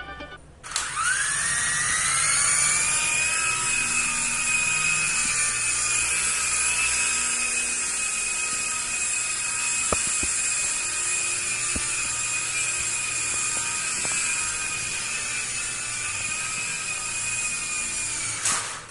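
Small electric motors of a Velocity IR remote-control toy helicopter spin up with a rising whine about a second in. They run at a steady high whine and cut off just before the end.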